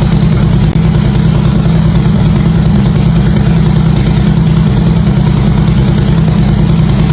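Harley-Davidson V-twin motorcycle engine idling steadily through its exhaust, a fast, even pulsing with no revving.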